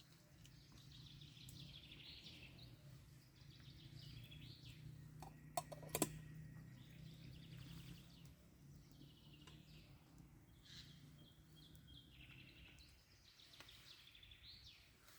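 Faint birds chirping and calling in woodland over a low steady hum, with two sharp clicks close together about six seconds in.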